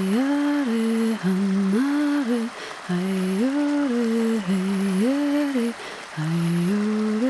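A voice humming a slow, wordless, lullaby-like melody in short stepped phrases that rise and fall, with a brief pause near the end.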